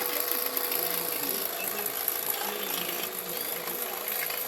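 A small machine running steadily with a fast, even rattle and a high whine.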